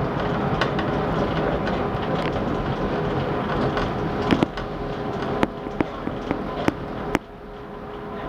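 Chicago 'L' train car running, with a steady rumble and an even hum. In the second half a run of sharp clanks from the wheels, then the noise drops off abruptly near the end.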